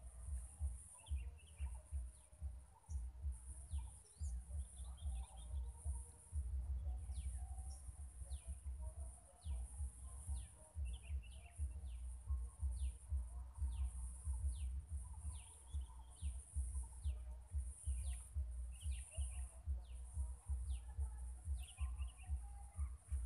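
Birds calling: many short, falling whistled notes repeated every second or so, mixed with bursts of twittering. Under them runs a low fluttering rumble of wind on the microphone and a steady high hiss.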